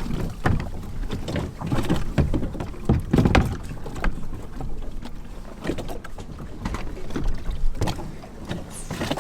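Irregular knocks and thuds of a kayak being handled and lowered off the side of a boat, with wind on the microphone.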